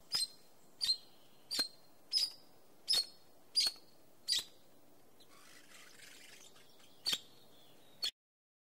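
A bird calling in a park: a short, sharp, high chirp repeated about every 0.7 seconds, seven times, then after a pause two more, over a faint outdoor background.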